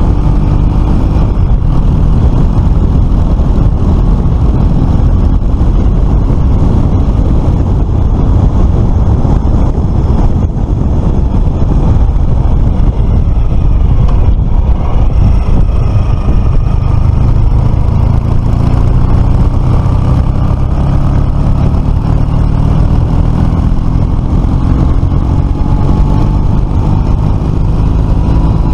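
Suzuki Address FL125 scooter's single-cylinder 125cc engine running on the road over a heavy low rumble. Its note rises steadily through the second half as it speeds up.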